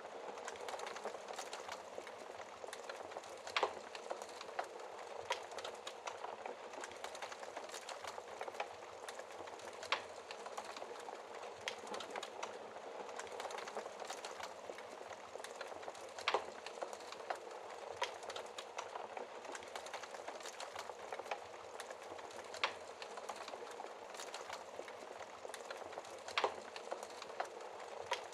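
Wood fire burning in a fireplace: a steady crackle and hiss, with a sharper pop every few seconds.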